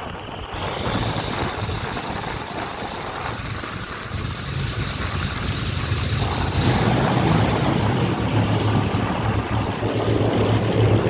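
Passenger train running along the track, heard from an open carriage window: a steady rumble from the wheels and running gear with a thin high tone over it. It grows louder about six and a half seconds in.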